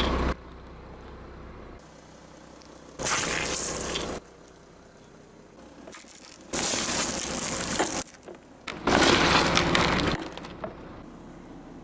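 Objects crunching and cracking as a car tyre rolls over and crushes them, in three bursts of about a second each: one about three seconds in, one near the middle and one shortly after.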